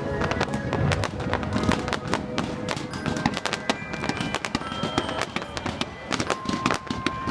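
Fireworks popping and crackling in quick, irregular succession, over Christmas pop music playing through loudspeakers.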